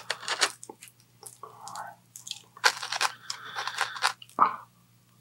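Close-miked chewing of crispy food: irregular sharp crunches and short mouth noises.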